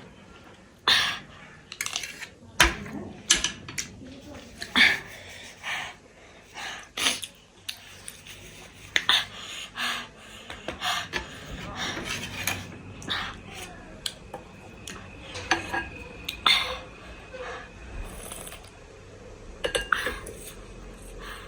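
Eating sounds: cutlery clinking and scraping against a dish in irregular sharp clicks, with chewing between them.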